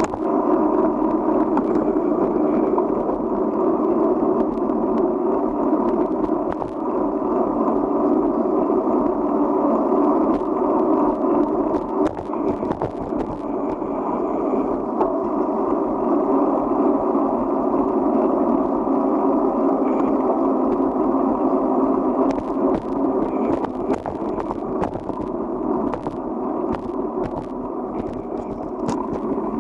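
Wind and rolling noise on a bicycle-mounted camera while riding, a steady muffled rush, with scattered sharp knocks from bumps in the second half.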